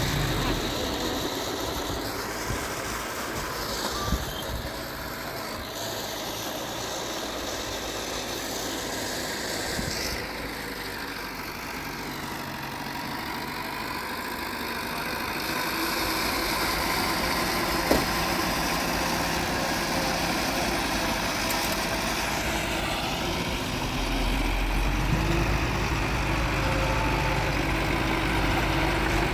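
Diesel engine of heavy earthmoving machinery running steadily, with a single sharp knock partway through. The engine's low rumble grows louder and heavier in the last few seconds.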